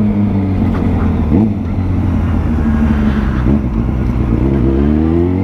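Yamaha FZ6's inline-four motorcycle engine running under way. Its pitch eases down at the start, holds steady, then rises again from about four seconds in as the bike accelerates.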